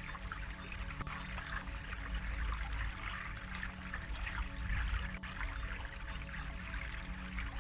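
Water running steadily, a stream trickling and splashing, with a low rumble underneath.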